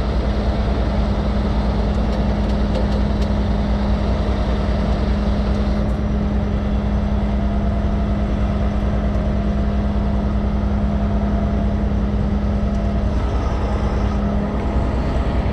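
Heavy diesel truck engine running steadily with a constant low drone, a few faint clicks in the first few seconds.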